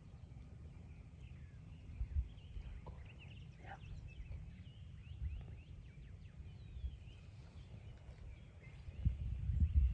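Small songbirds chirping in the woods over a low rumble, which grows louder near the end.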